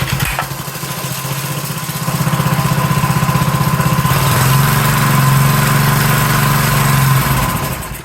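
Briggs & Stratton single-cylinder engine (model 80242) on a lawn edger running on a shot of starting fluid, getting louder, picking up speed about four seconds in, then fading and dying out at the end. It won't keep running on its own fuel, which the mechanic suspects is down to the carburetor.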